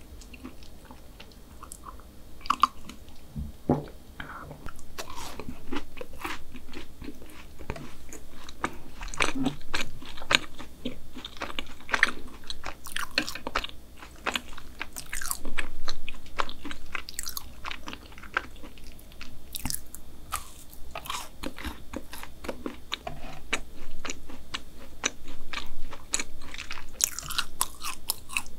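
Close-miked chewing of chocolate brownie: a steady stream of quick wet mouth clicks and smacks, quieter for the first few seconds.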